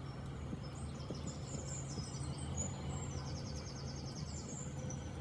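Small songbirds singing: high, thin phrases throughout, with a fast, even trill in the middle, over a low steady rumble.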